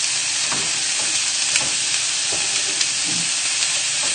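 Boiled new potatoes sizzling steadily in a little hot oil in a saucepan, with a few light knocks of a wooden spoon as a pan is stirred.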